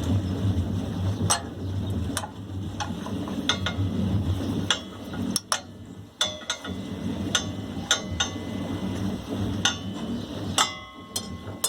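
Metal hand tools clicking and clinking against the generator engine's metal parts, irregular sharp taps about one or two a second, with one ringing metallic clink near the end, over a steady low hum.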